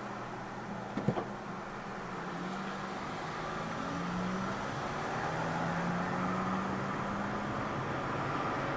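Car driving along a road: steady engine hum and tyre noise, growing a little louder, with a short knock about a second in.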